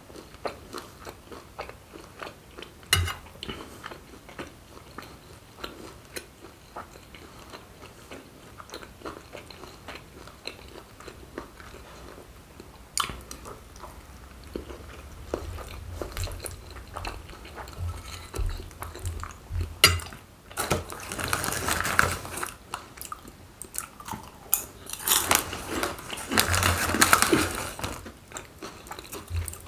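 Close-miked chewing and biting of steak and mac and cheese, with wet mouth clicks. Twice in the second half comes a longer stretch of crinkling, the later one as a hand reaches into a plastic bag of potato chips.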